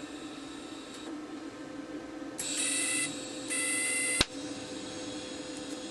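TIG welding arc buzzing in two short bursts of about half a second each, a brief gap between them, over a steady low hum. A sharp click follows the second burst.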